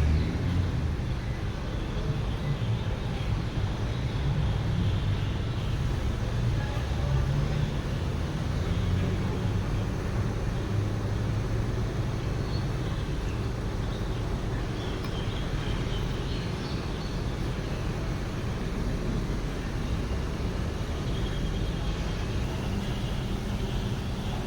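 Huebsch washing machine running, a steady low rumble with no breaks.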